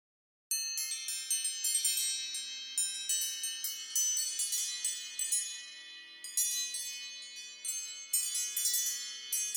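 iPhone ringtone: a quick, rippling run of high, chime-like bell notes over a few soft lower tones, starting about half a second in after a brief silence.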